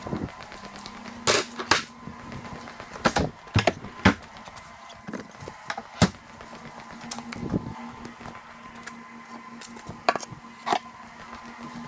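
Oil-change supplies and hand tools being picked up and set down: scattered sharp clicks and knocks, a dozen or so spread unevenly, over a faint steady hum.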